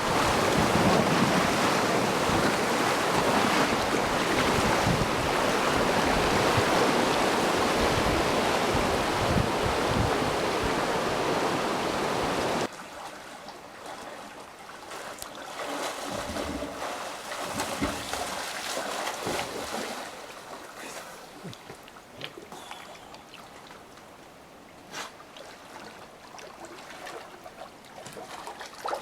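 Wind rushing over the microphone, loud and gusty, stopping abruptly about halfway through. After that the background is much quieter, with faint scattered sounds.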